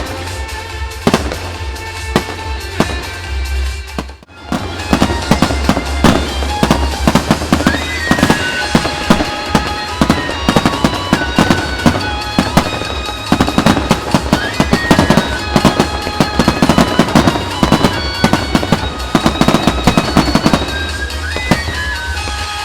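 A fireworks display, with shells bursting and crackling in quick succession over the music played for the show. The sound drops out abruptly for a moment about four seconds in, after which the barrage of bangs and crackle grows denser.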